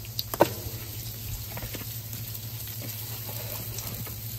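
Bacon and sausage links sizzling on a Blackstone flat-top griddle, with scattered crackles and pops. A sharp tap about half a second in, over a steady low hum.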